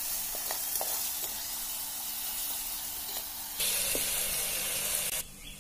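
Onions, green chillies and ginger-garlic paste sizzling in oil and ghee in a clay pot while being stirred with a perforated steel spoon, with a few light ticks of the spoon. The sizzle gets louder about three and a half seconds in and drops off sharply near the end.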